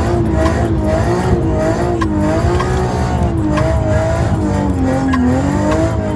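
A car drifting: tyres squealing in a wavering tone over the running engine.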